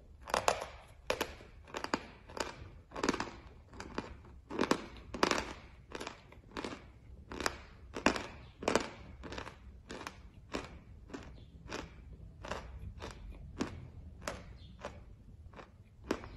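Chewing a mouthful of pressed chalk: steady crunches about every two-thirds of a second, growing softer in the second half as the chalk is ground down.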